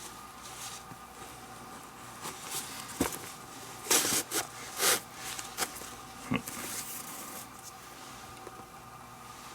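Leather lace being pulled through the lacing holes of a Rawlings Gamer baseball glove. There are short scraping pulls, the loudest bunched together about four to five seconds in, with a sharp click just before them and another a little after, over a faint steady hum.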